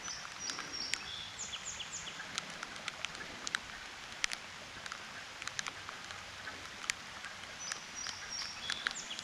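A small bird singing a run of short, high, falling whistled notes twice, once near the start and again near the end. Under it runs a steady outdoor hiss with scattered sharp ticks of light rain.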